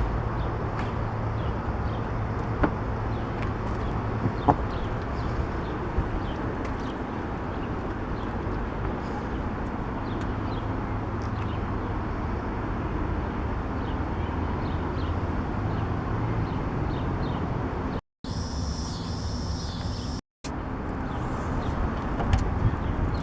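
Steady outdoor background rumble with faint scattered bird chirps and a few light clicks, cut off abruptly twice near the end.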